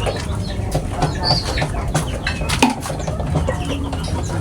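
Small pipit birds chirping in short, scattered calls, with a few sharp clicks and a low steady hum underneath.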